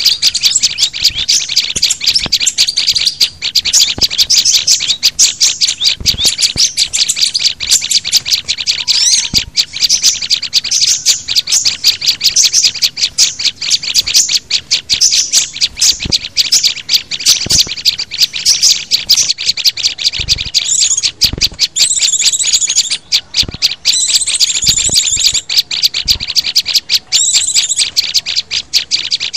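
Recorded calls of small songbirds in a dense mix of rapid high chirps, with separate higher, faster trill phrases coming in from about two-thirds of the way through and occasional short low thumps. It is a lure recording meant to draw wild birds such as white-eyes, prinias, sunbirds and flowerpeckers.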